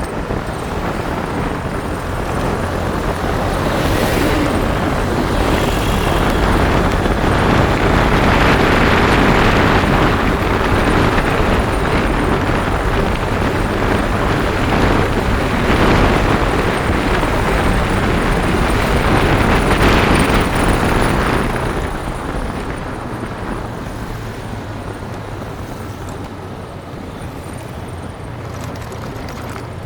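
Motorbike running along a road: steady engine note under a loud rush of road and wind noise, building up over the first few seconds and easing off about three-quarters of the way through.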